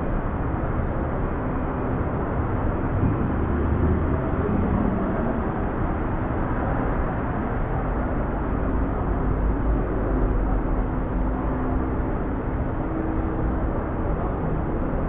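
Steady city street noise, mostly a low rumble of passing road traffic.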